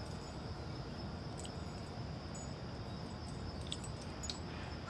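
Crickets trilling steadily in a high, continuous tone over a low outdoor background rumble, with a few faint clicks.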